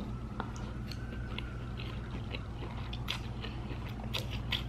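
Close-up chewing and mouth sounds of someone eating a mouthful of noodles, with soft wet clicks scattered through that come more often in the second half.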